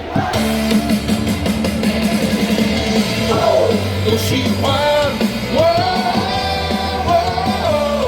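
A baseball batter's cheer song played loud over stadium loudspeakers, with a crowd singing and shouting along; the batter's name is chanted near the end.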